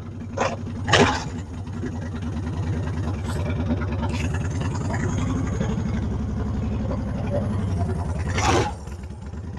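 Honda Fury's 1300cc V-twin with aftermarket exhaust pipes running at low revs as the motorcycle pulls away gently, its note easing off near the end. There are short bursts of noise about a second in and again near the end.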